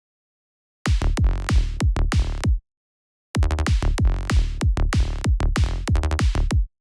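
Synthesized electronic kick drum and bass pattern played back from music software, in two short passes: the first stops abruptly after under two seconds and the second runs about three seconds before cutting off. The hits are rapid and punchy with a heavy low end.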